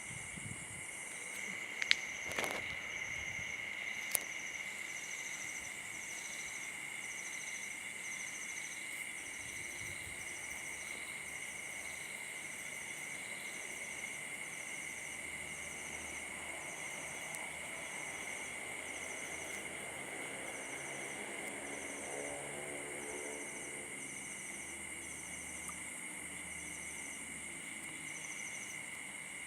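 Insects chirring steadily outdoors, with a high pulsing call repeating about once a second and a couple of sharp clicks a few seconds in.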